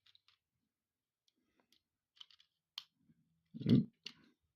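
Small plastic building bricks clicking as they are pressed onto a model truck: a few sharp clicks, with one louder, duller knock a little before the end.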